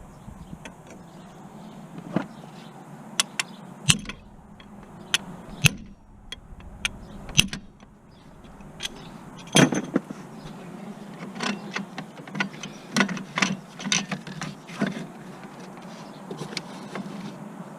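Irregular metallic clinks and knocks of hand tools and car parts being handled during a clutch job. The loudest knock comes just under ten seconds in.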